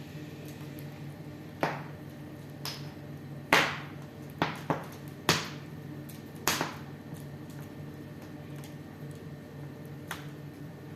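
Wood fire in a fireplace crackling, with about eight sharp pops spread irregularly through the first seven seconds and one more near the end, over a steady low hum.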